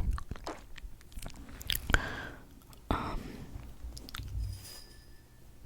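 Close-miked ASMR mouth sounds: scattered wet lip smacks and clicks, with a couple of longer sticky smacks a few seconds in.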